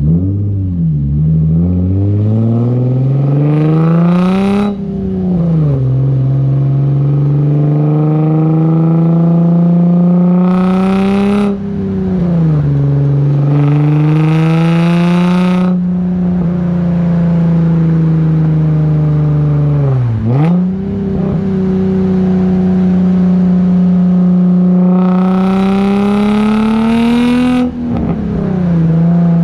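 Nissan 350Z's 3.5-litre V6 through a straight-through exhaust (ISR test pipes, H-pipe and a Concept Z Performance true dual cutback), accelerating hard through the gears. The pitch climbs, drops at each upshift and climbs again, with a steady cruising stretch in between. There is a raspy edge at the top of each pull.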